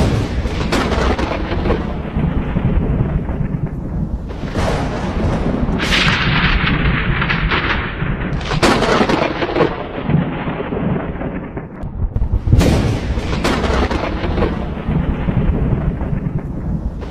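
Thunderstorm: continuous rumbling thunder over steady rain, with about five sharper cracks of thunder that each fade into the rumble.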